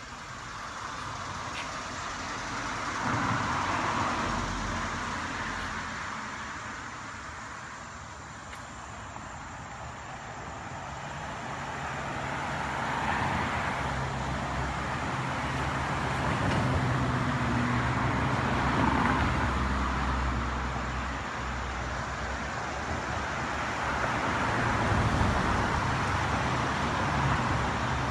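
Road traffic: cars passing with tyre and engine noise, swelling and fading several times.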